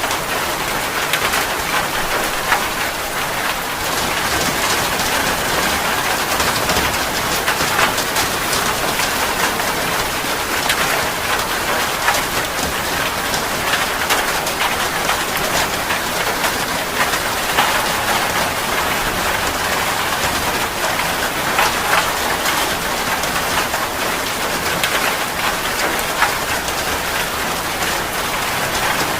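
Steady rain falling, a dense patter of countless drops ticking on surfaces.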